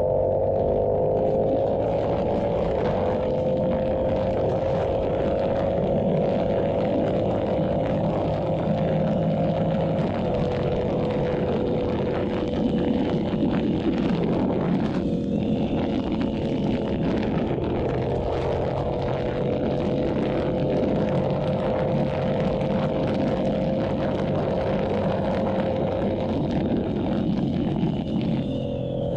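Yamaha YZF-R7's parallel-twin engine running through an SC-Project exhaust. It rises in pitch over the first couple of seconds, then cruises at nearly steady revs, and the revs change near the end.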